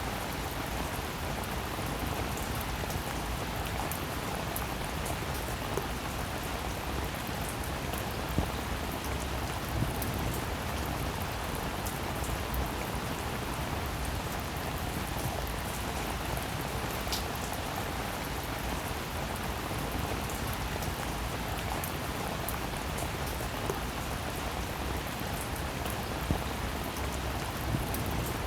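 Rain falling steadily, with individual drops ticking now and then above the even patter.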